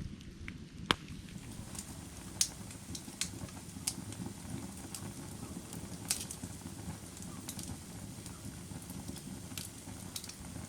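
Firewood burning: a steady low rumble of flame with a dozen or so sharp, irregular crackles and pops, the loudest about a second in.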